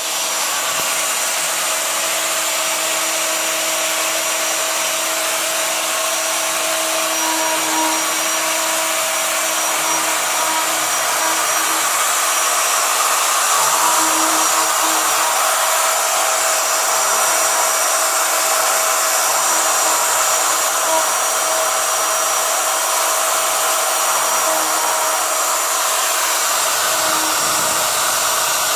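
Router motor mounted on a CNC router's gantry running steadily at high speed with a high whine and hiss while the machine runs its test-cut program; a lower rumble joins near the end.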